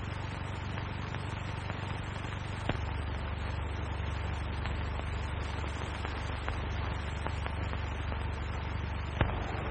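Steady hiss and low hum of an early-1930s film soundtrack, with scattered faint ticks and a sharper click about three seconds in and again near the end.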